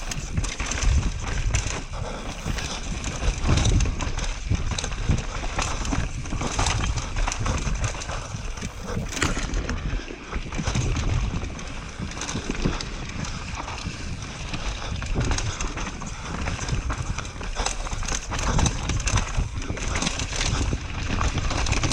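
Mountain bike descending a rough downhill trail: tyres on dirt and rock with frequent knocks and rattles from the bike, and wind buffeting the microphone.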